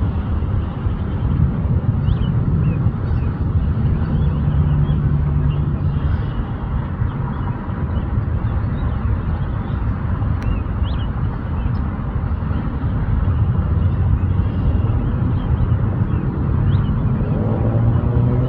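Steady low outdoor rumble, with faint short high chirps every few seconds. Near the end, a rising engine-like whine comes in.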